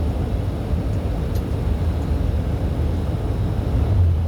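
Steady low rumble of a semi truck's engine and road noise heard from inside the cab while driving, swelling slightly near the end.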